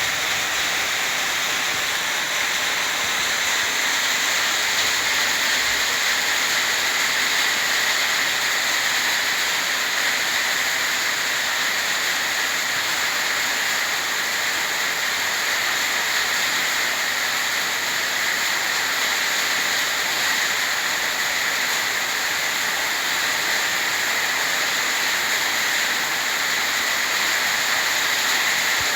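Heavy rain pouring down steadily, a dense, even hiss with no letting up.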